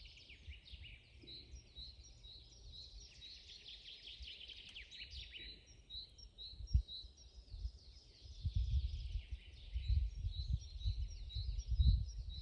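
Several songbirds singing in a forest: one repeats a short high note about twice a second while others add rapid trills. A low rumble underneath grows louder in the last few seconds.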